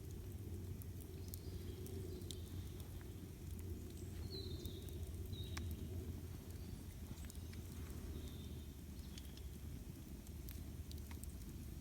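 Campfire crackling, with scattered sharp pops over a steady low rumble, and a few short bird chirps now and then.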